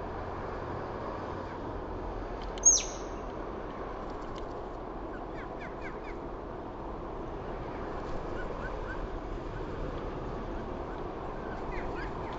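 Wild birds calling over a steady background hiss. One loud, sharp call sweeps quickly down in pitch about three seconds in, with fainter short chirps later on.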